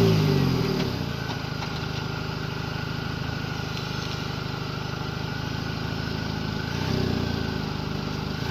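R53 Mini Cooper S's supercharged 1.6-litre four-cylinder, through a JCW cat-back exhaust, dropping back from a rev and then idling steadily. About seven seconds in, it gets a light blip of the throttle and settles again.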